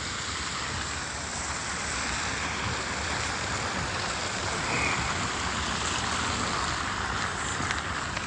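Steady hiss of road traffic, an even wash of tyre and engine noise with no single vehicle standing out.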